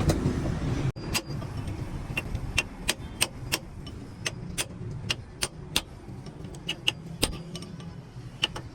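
A low rumble that cuts off abruptly about a second in, followed by irregular sharp clicks or taps, two or three a second, over a low hum.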